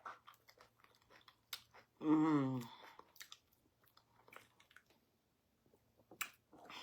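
Close-up mouth sounds of eating pounded yam and ogbono soup: wet chewing with many short smacks and clicks. About two seconds in comes a brief hummed "mmm" with a wavering, falling pitch.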